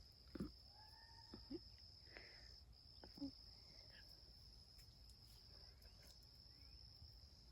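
Faint, steady high-pitched insect trill, with a few soft bird chirps about a second in and scattered light clicks of handling or footsteps.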